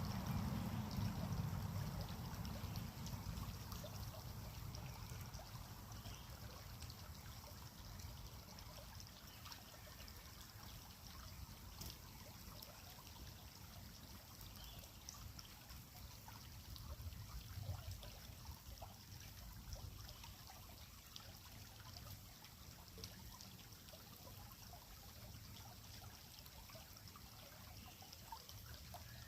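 Creek water trickling faintly and steadily. A low rumble at the start eases off over the first few seconds.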